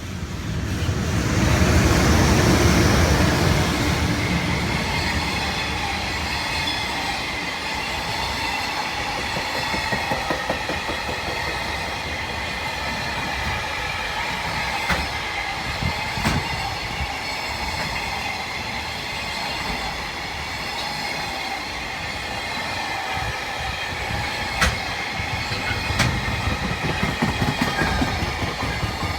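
JR East electric commuter train passing close by. It comes up loud in the first couple of seconds, then keeps up a long, steady wheel-on-rail rumble with clickety-clack and a few sharp clicks.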